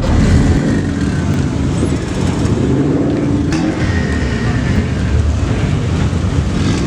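Car engine running loudly close by, with a brief rise and fall in pitch near the middle.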